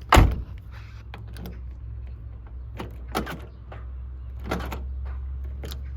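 Ford Fiesta's central locking demonstrated: a loud thump at the start, then a series of short clunks from the door lock actuators locking and unlocking.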